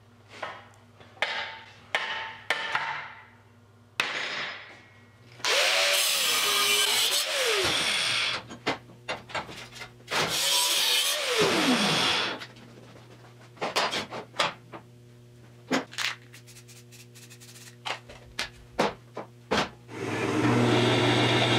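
Metalworking power tool working steel in several bursts, its pitch sagging under load and falling as it spins down, between knocks and clatter of the metal being handled.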